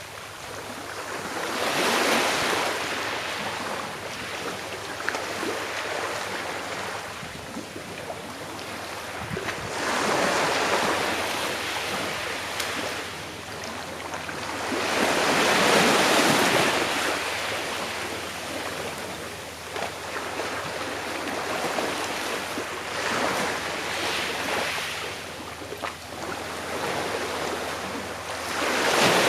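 Sea waves breaking and washing on a shore, each wave swelling to a peak of noise and then fading, about every six to eight seconds.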